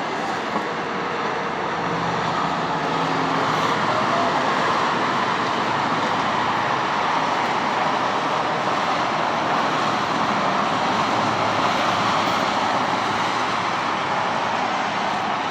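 Steady road traffic noise: a continuous rushing of passing vehicles, a little louder from about four seconds in.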